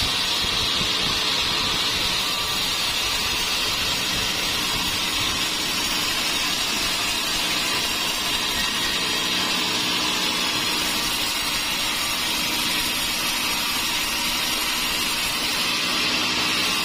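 Sawmill saw cutting steadily through a large beam of dry teak, a continuous high-pitched machine noise.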